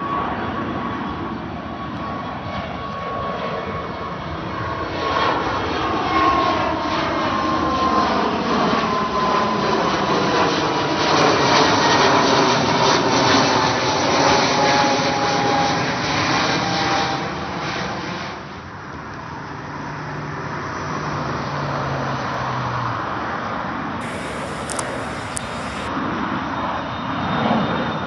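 Jet airliner passing low overhead at takeoff power: a loud, steady rush with a whine that falls slowly in pitch as it goes by. The noise peaks in the middle, eases about two-thirds of the way through, and builds again near the end.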